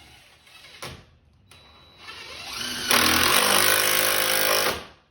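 A power drill winding up in pitch, running loud and steady for about two seconds, then stopping suddenly, as the squeaky wooden subfloor is reinforced. A short knock comes about a second in.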